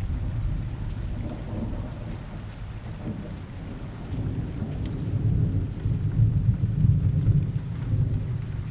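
Rain ambience with low rolling thunder; the rumble eases, then swells again about five seconds in.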